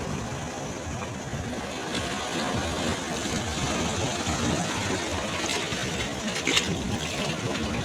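Sea waves breaking and washing on a shore in a steady rush of surf, with a sharper splash about six and a half seconds in.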